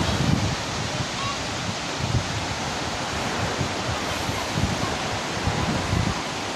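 Steady rush of a waterfall, with wind buffeting the microphone in uneven low gusts.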